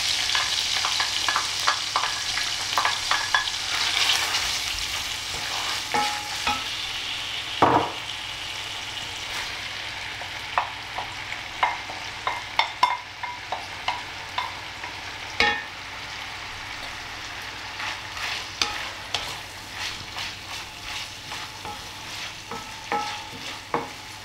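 Diced bacon and sliced leeks sizzling in hot fat in an enamelled cast-iron pan, the sizzle loudest at first and then softer, while a wooden spoon stirs with many small clicks and scrapes and a sharp knock about eight seconds in.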